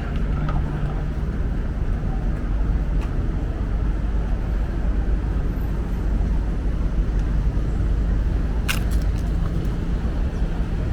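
City street traffic: a steady low rumble of vehicle engines running. A brief cluster of sharp clicks comes about three-quarters of the way through.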